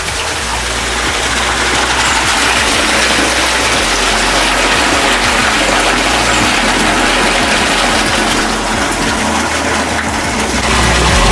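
Water gushing steadily from the outlet of a diesel-engine-driven irrigation pump.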